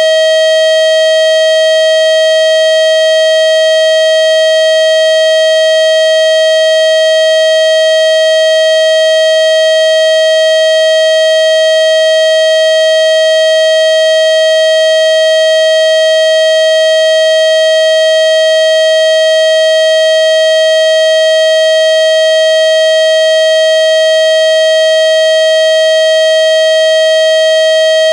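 Steady, loud electronic tone held at one unchanging pitch, with a stack of overtones above it: a speaker-cleaning sound played to shake water out of a phone's speaker.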